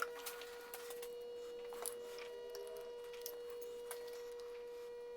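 Faint, scattered metallic clicks and taps as the horizontal mill's spindle and boring head are rocked by hand to touch the tool off, over a steady faint hum.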